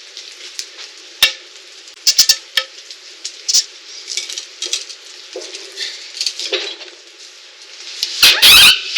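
A scatter of sharp knocks and clinks of hard objects, then a longer, loud rattling clatter near the end.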